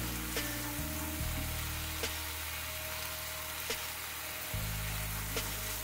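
Ground masala paste sizzling in hot oil in a nonstick pan, stirred with a wooden spatula that gives a few short scrapes and taps. Soft background music with sustained low notes plays under it.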